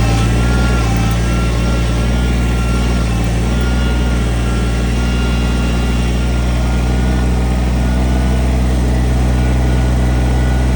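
Diesel engine of a piece of heavy earthmoving equipment running steadily at an even speed.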